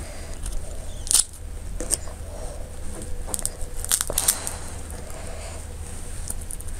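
Close-miked eating sounds of someone eating crab: chewing and crunching with sharp clicks and cracks, loudest about a second in and around four seconds in.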